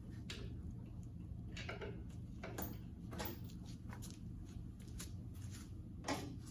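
Scattered short clicks and scrapes of hand tools and fittings as a coolant hose and its clamp are worked loose on a tractor engine, over a steady low hum.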